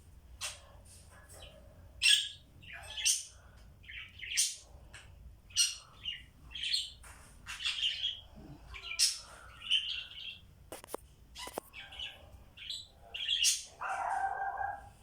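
Pet budgerigars chirping and chattering in short, irregular high calls, roughly one or two a second, with a louder, lower-pitched call lasting about a second near the end.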